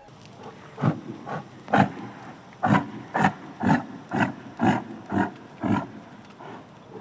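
A big cat giving a series of about ten short, rough roaring calls, coming about two a second and closer together after the first few.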